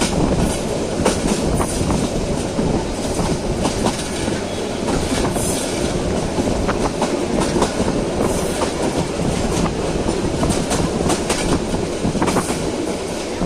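Moving passenger train: a steady rumble and rattle, with the clickety-clack of its wheels over the rail joints.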